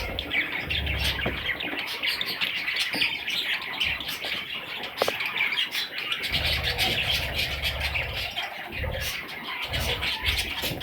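Budgerigars chattering and chirping in a dense, continuous warble, with low rumbling at the start, from about six seconds in and again near the end.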